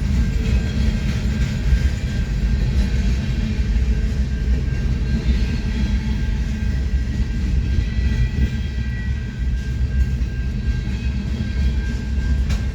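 Freight train of tank cars rolling past: a steady low rumble of steel wheels on rail, with a thin steady high tone above it.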